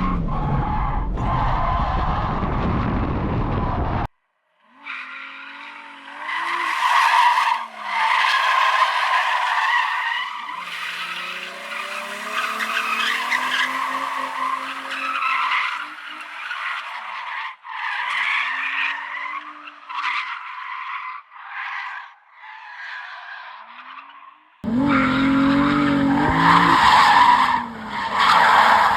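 Cars drifting: tyres squealing and engines revving up and down, in several cut-together stretches with a brief silent break about four seconds in.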